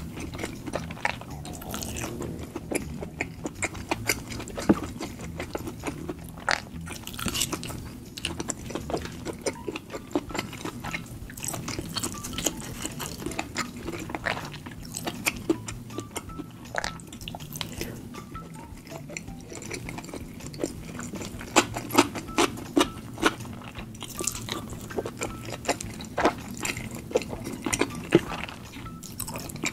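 Close-miked eating sounds: chewing of soft, chewy rice cakes and noodles in thick spicy sauce, with many short sharp wet clicks, and a utensil stirring and scooping through the sauce.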